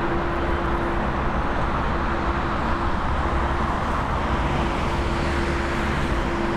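Steady engine rumble with a constant hum, even in level throughout.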